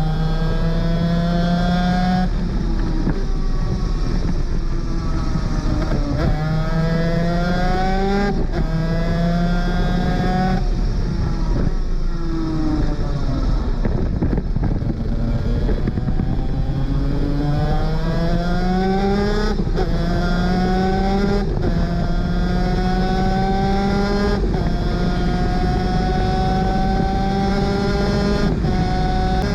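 A 250cc two-stroke superkart engine at full race pace, heard from onboard. It climbs in pitch and drops back sharply at each upshift, with a stretch of slowing and downshifts about midway before accelerating hard through the gears again.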